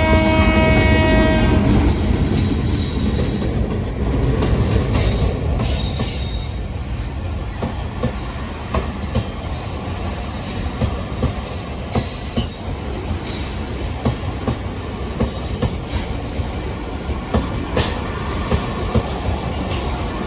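Express passenger train's horn sounding and cutting off about two seconds in, then the train running past: a steady rumble of wheels on rail with scattered clicks and brief high-pitched wheel squeals.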